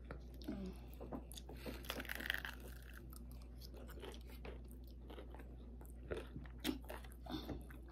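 Close-up mouth sounds of someone chewing and biting a crispy fried pork chop: irregular small crunches and wet clicks.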